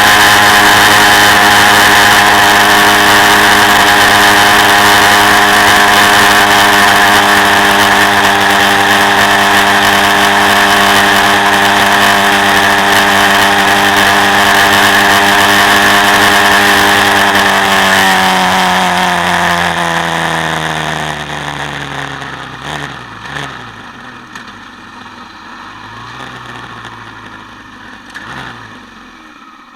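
Quad bike engine running at steady high revs. About two-thirds of the way through the revs drop away over a few seconds, and the engine settles to a low, uneven idle that grows much quieter.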